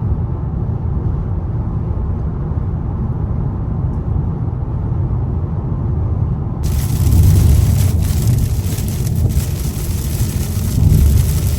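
Car interior road noise, a steady low rumble. About two-thirds of the way in it gives way abruptly to a dense hiss of heavy storm rain on the car, with deep surges of rumbling.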